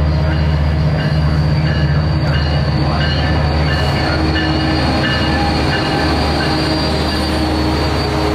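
Train at a station: a diesel locomotive's steady low engine rumble, with short high tones repeating about twice a second through the first half.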